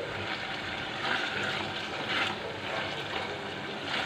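Liver masala sizzling in an aluminium pot as it is fried and stirred with a silicone spatula. The sizzle swells about once a second with each stroke of the spatula.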